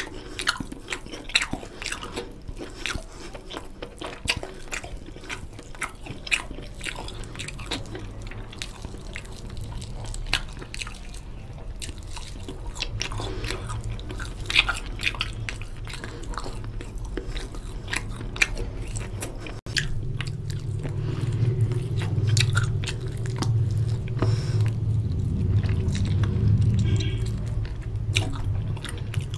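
Close-miked eating of mutton curry and rice by hand: wet chewing with many short mouth clicks and lip smacks. A low hum grows louder in the last third.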